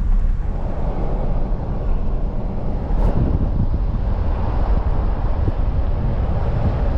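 2024 Jeep Gladiator driving on a backroad: steady rumble of road and engine noise with wind buffeting the microphone, and a single sharp click about three seconds in.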